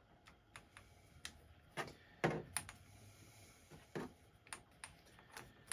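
Scattered light clicks and a few duller knocks of small metal parts and tools being handled while an air rifle is taken apart, about a dozen irregular taps.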